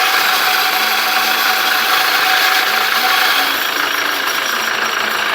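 Volkswagen 8-150 Delivery truck's diesel engine idling with a clutch noise, which the owner puts down to the clutch release bearing. A thin steady whine over the engine stops about three and a half seconds in.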